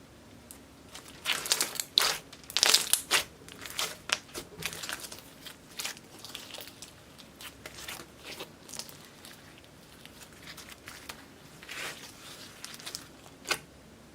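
Slime with black makeup, clay and glitter mixed into it, worked by hand, making sticky crackling and popping sounds, loudest in a run of bursts over the first few seconds, then quieter scattered crackles and one sharp pop near the end.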